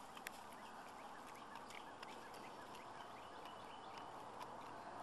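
Faint outdoor ambience with scattered short, high bird chirps and a few light clicks.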